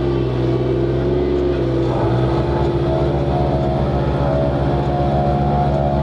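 Heavy diesel engine running steadily; about two seconds in, its low note changes and takes on a fast, even throb.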